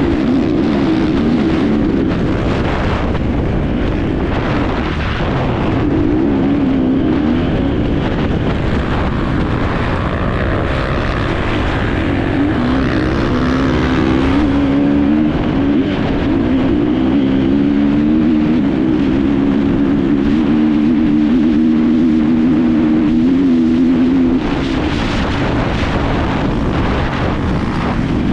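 Enduro dirt bike engine running hard under the rider, its note wavering up and down with the throttle, over a steady rush of noise. The engine eases back a little about three-quarters of the way through.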